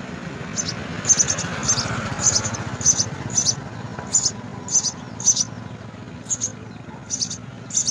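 House sparrows chirping at the nest: short high chirps repeated about twice a second, over a steady low hum.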